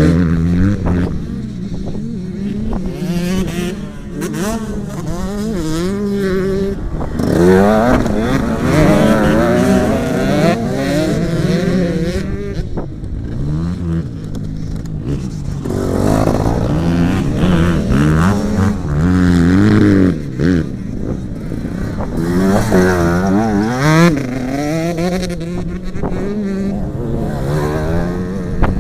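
Motocross dirt bike engines revving, their pitch rising and falling over and over as the bikes throttle up and back off.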